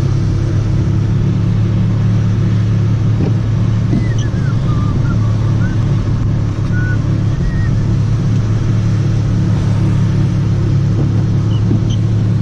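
Steady low drone of a car's engine and tyres heard from inside the cabin while driving at an even speed.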